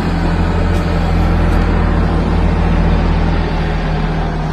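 Vehicle engine running steadily at idle, a constant low hum with no revving.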